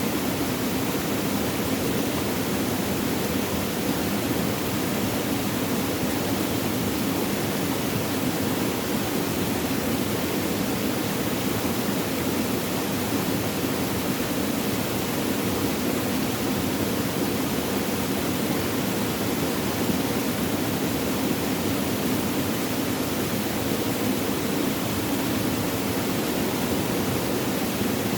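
Flowing, babbling water, a steady even rush with no breaks or changes.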